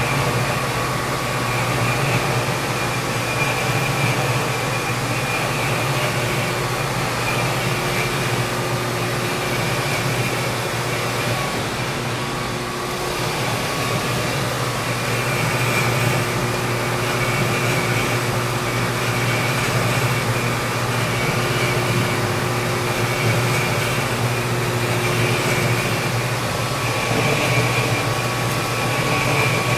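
Lathe running steadily with a boring tool cutting the inside of a fiberglass tube. The bore runs out of true, so the tool barely cuts on one side and takes big chunks off the other.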